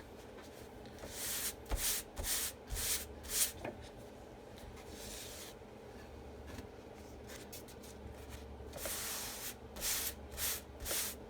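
A Chalk Couture adhesive transfer sheet being pulled across a fuzzing cloth in short swishing strokes, in two runs of four or five strokes each.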